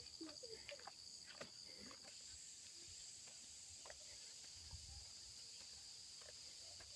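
Faint, steady high-pitched chirring of insects such as crickets, with a few faint short calls or distant voices in the first second or so.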